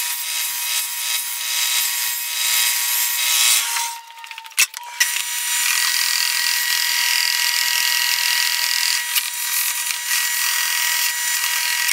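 Electric power saw cutting wood: the motor runs steadily, stops and winds down about four seconds in, then starts again a second later and keeps cutting.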